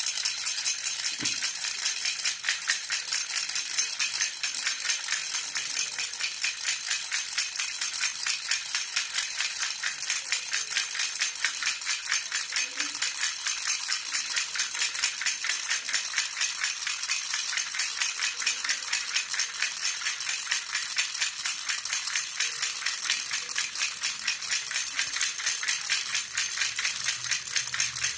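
Jhunjhuna (baby rattle) shaken rapidly and without a break: a dense, bright, steady rattling.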